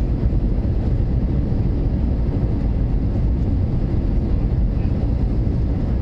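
Steady low rumble of an Airbus A320 in flight, its engines and airflow heard from inside the passenger cabin.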